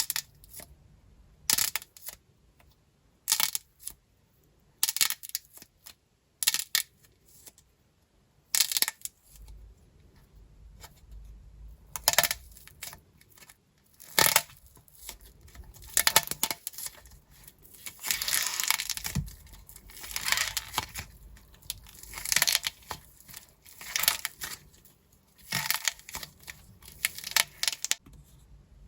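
Dried plaster clay being cracked and crushed: brittle crackling snaps, first in separate bursts a second or two apart, then in dense, near-continuous crackling through the second half, stopping just before the end.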